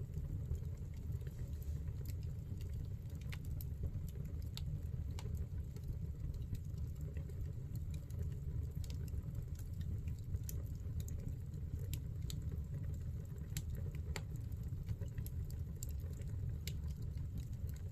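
Wood fire burning in a fireplace: irregular sharp crackles and pops of burning firewood over a steady low rumble of the flames.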